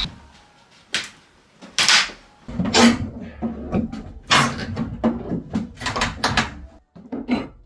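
Wooden wardrobe parts being knocked apart during demolition: two separate knocks, then a dense run of knocks and clattering, then a couple more near the end.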